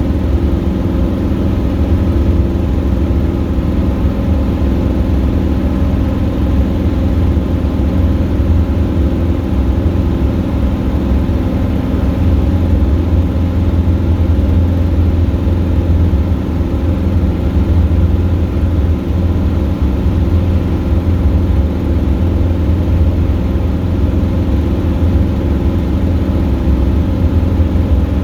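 Robin DR400 light aircraft's piston engine and propeller running at power in flight, a steady drone.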